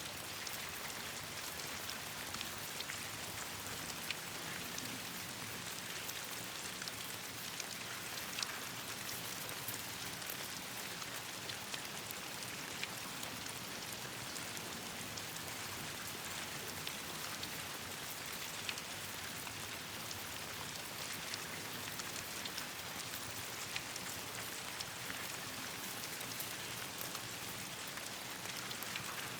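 Steady rain falling on leaves and branches, an even hiss dotted with many small sharp drop ticks.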